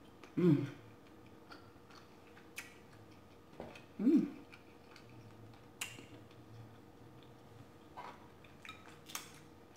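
Close-miked eating sounds: a person chewing quietly, with scattered sharp mouth clicks. Two short hummed "mm" sounds of enjoyment come about half a second in and about four seconds in.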